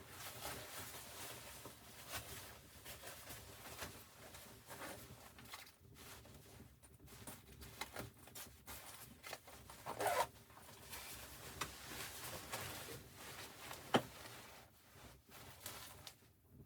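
Close handling noises: a run of short scraping, rustling strokes, with a louder stroke about ten seconds in and a sharp click about fourteen seconds in.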